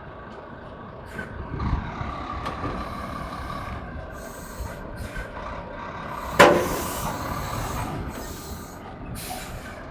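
A semi-truck running while its trailer is shifted over its sliding tandem axles. Short bursts of air hiss come from the brakes, and a single loud metallic clunk sounds about six and a half seconds in.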